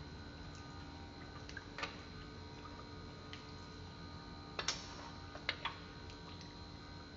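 A few light, scattered clicks and taps, with the loudest pair about halfway through, as small metal parts and tools are handled during engine disassembly. A steady faint hum runs underneath.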